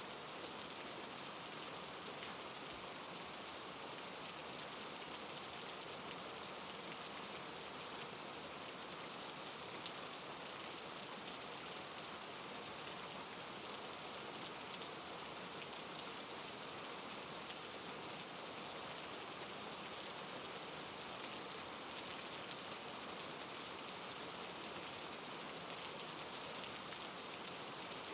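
Steady, soft rain falling, an even hiss with fine patter of drops and no change in intensity.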